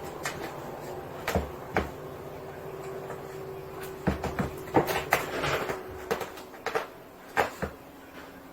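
A series of irregular knocks and clicks, like things being handled or bumped, over a low background with a faint steady hum through the middle.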